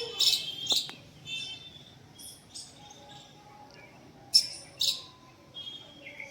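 Small birds chirping: short, sharp, high chirps scattered through, with two louder ones about four and a half and five seconds in.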